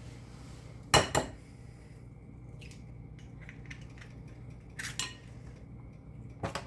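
Kitchen dishes and utensils knocking and clinking. Two sharp knocks come about a second in, then lighter clicks, then two more knocks near the end.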